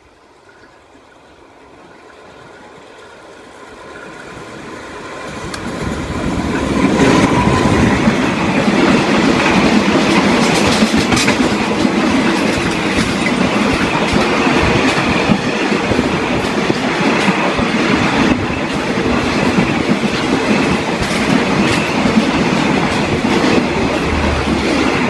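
Express passenger train approaching and running past at speed: the sound grows over the first six or seven seconds, then holds at a loud, steady rumble of wheels on rail with scattered clicks from the rail joints.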